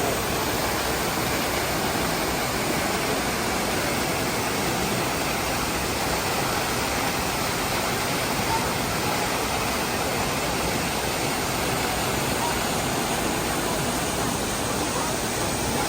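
Düden waterfall: the steady rush of falling water.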